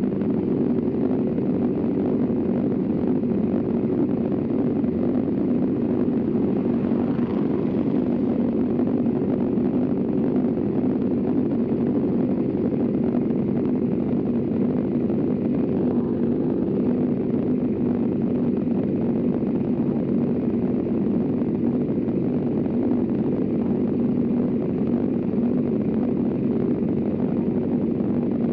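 Motorcycle engine running at a steady speed, with no revving.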